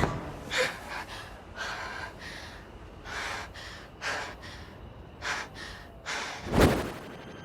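A person breathing hard in a series of short, ragged gasps at an uneven pace, with the loudest, deepest gasp near the end.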